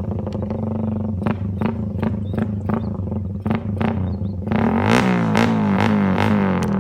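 Suzuki Raider 150's single-cylinder engine through an open Daengsai4 exhaust pipe, first holding a steady drone, then revved up and down over and over from about two-thirds of the way in. Background music with a steady beat plays over it.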